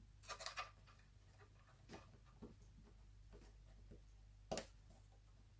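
Faint, scattered clicks and taps of small laptop parts being handled during reassembly: a quick cluster near the start, a few light ticks in the middle and one sharper click near the end, over a low steady hum.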